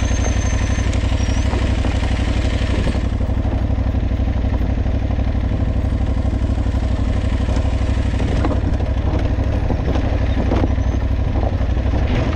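Aprilia Tuareg 660's parallel-twin engine running at steady, low revs while riding a singletrack trail, with a few knocks and clatter from the bike over rough ground.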